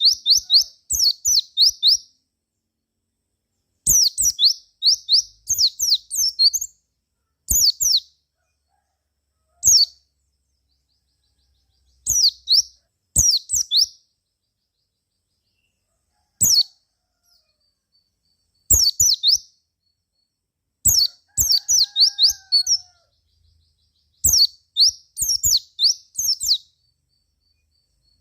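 White-eye (pleci) singing in phrases of fast, high chirps, each phrase a second or two long, with short pauses between them.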